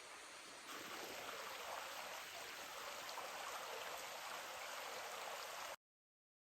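Steady rush of running water, faint, starting about a second in and cutting off suddenly near the end.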